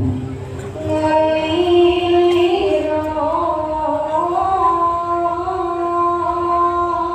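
A woman singing a slow melody in long held notes with slides between them, over backing music. A low thud sounds right at the start.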